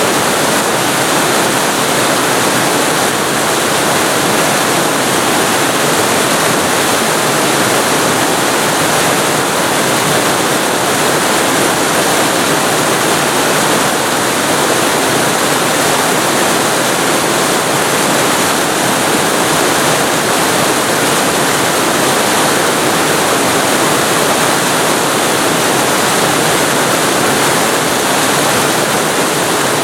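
Waterfall heard from very close, a steady, loud rush of falling water with no changes.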